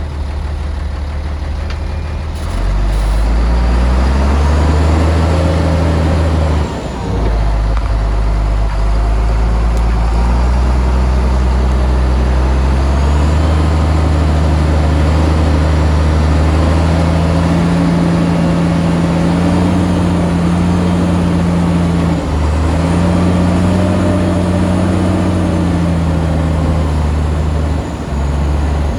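Large diesel engine of heavy construction machinery working under changing load, its pitch and loudness stepping up and down several times, with two brief dips.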